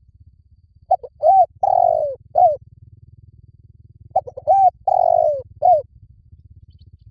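Spotted dove cooing: two phrases of four coos each, about three seconds apart. The third coo of each phrase is drawn out and falls in pitch. A faint low hum runs underneath.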